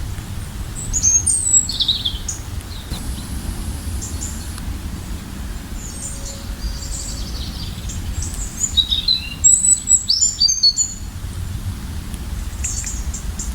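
Small birds chirping in short high-pitched calls and trills, busiest about a second in and again from about nine to eleven seconds in, over a steady low rumble.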